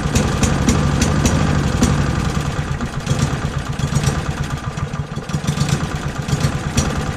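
Small four-stroke engine of a cheap Power Performance rotary lawnmower running at idle, unsteady, its level rising and falling. It runs poorly, ticking over slowly and then picking up, which the owner thinks needs carburettor adjustment.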